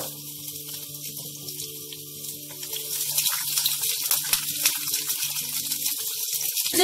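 Onion and red capsicum pieces sizzling in hot oil in a frying pan. About three seconds in a wooden spoon starts stirring them, and the sizzle grows louder with scraping and clicks of the spoon against the pan.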